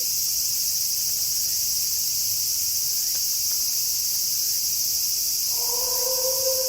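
Steady high-pitched chorus of crickets. About five and a half seconds in, a wolf begins a long, steady howl.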